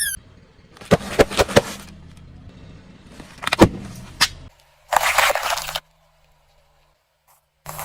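Car tyre rolling over and crushing objects: a quick run of sharp cracks and crunches, two more cracks a couple of seconds later, with the car's engine running low underneath. A short hiss follows about five seconds in, and another begins near the end.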